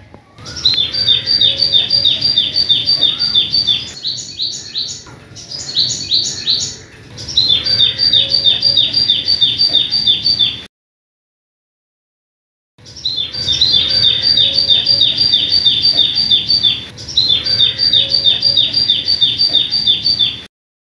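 Bird song: phrases of rapid, evenly repeated high chirps, about ten a second, each phrase lasting a few seconds. It cuts off abruptly about halfway through, stays silent for about two seconds, then resumes.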